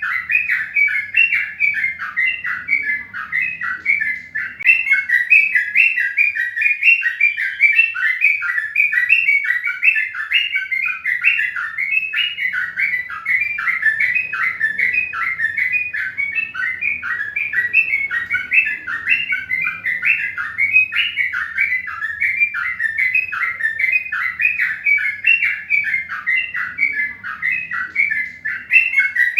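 Birds chirping rapidly and without pause, many short falling chirps a second in a steady stream.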